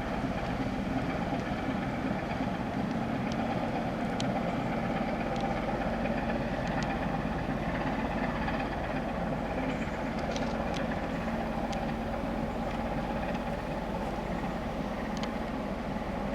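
Large ship's engine droning steadily, a low even hum with a few faint high ticks over it.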